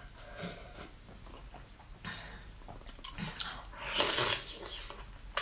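A person chewing and biting food close to the microphone, with scattered small wet clicks and a louder noisy stretch about four seconds in.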